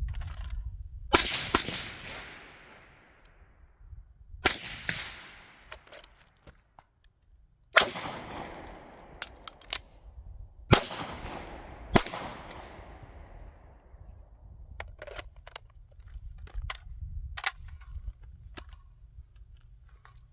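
Six gunshots: two in quick succession about a second in, then single shots a few seconds apart, each trailing off in a long echo. A few faint sharp ticks follow in the later seconds.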